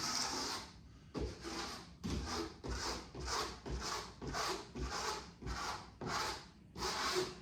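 Homemade glue spreader scraping back and forth over a plywood benchwork top, spreading wood glue in about eleven short strokes, roughly two a second.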